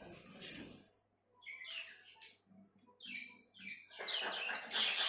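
A pet parrot calling in short, high, falling chirps with pauses, then a louder run of rapid chatter starting about four seconds in.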